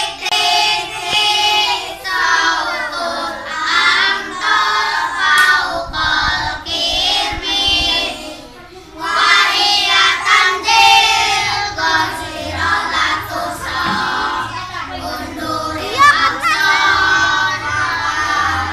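A group of young children singing a song together in Arabic, phrase after phrase, with a brief pause between lines about eight seconds in.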